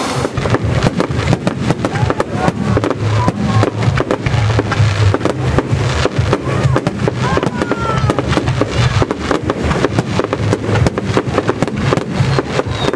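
Fireworks going off in rapid succession, a dense run of bangs and crackles over a deep rumble, that fades out just after the end.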